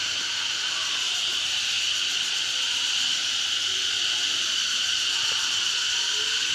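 Cicadas calling in a steady, unbroken chorus, a high-pitched buzz that holds without pause.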